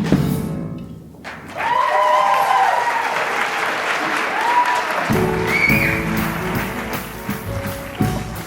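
Audience applauding and cheering with whoops as a stage musical number ends. About five seconds in, instrumental scene-change music starts under the applause.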